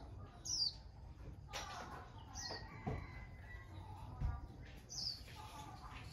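Birds chirping: three short high chirps, each falling in pitch, about two seconds apart, with two low knocks in between.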